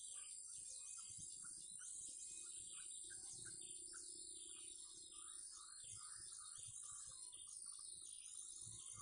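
Small birds chirping in short repeated phrases, with a steady high-pitched insect drone underneath.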